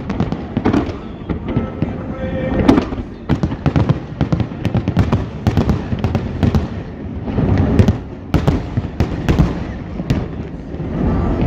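Aerial fireworks bursting in quick succession, with many sharp bangs and crackles and a rumble after the booms.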